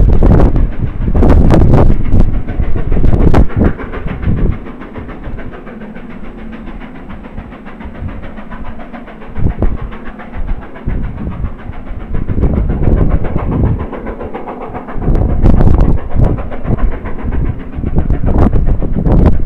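Passenger train moving away along the line, its wheels clattering on the rails and a diesel locomotive at the rear fading off, with heavy wind buffeting on the microphone in strong gusts at the start and again from about two-thirds of the way in.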